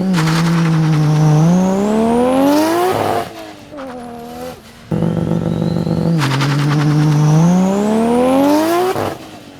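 A Nissan 180SX's RB25DET turbocharged straight-six doing two practice launches on launch control. Each time the revs hold steady at the launch limit for about a second and a half, then climb as the car pulls away hard, before the driver lifts off.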